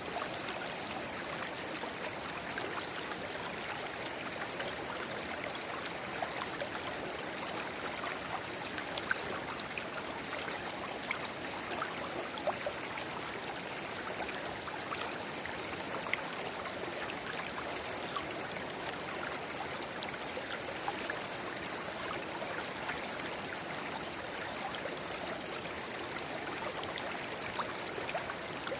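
River babbling steadily where a small spring-fed rivulet pours into the main stream, with small splashes and droplet ticks scattered through it.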